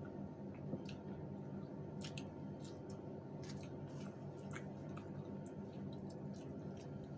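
Wet chewing and lip-smacking of two people eating with their hands, with many small scattered mouth clicks over a steady low hum.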